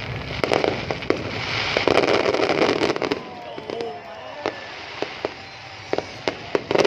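Fireworks display: many sharp bangs with crackling, busy for the first three seconds and then thinner, with scattered single pops.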